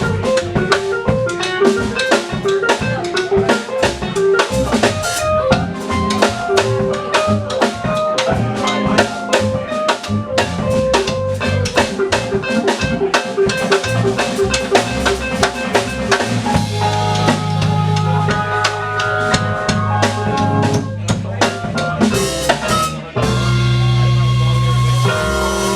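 Live funk band playing an instrumental section: a busy drum kit with rimshots and bass drum under a fast line of short melodic notes. About two-thirds of the way through the band moves to held chords over a sustained bass, with a sharp accent and a short break just before the end.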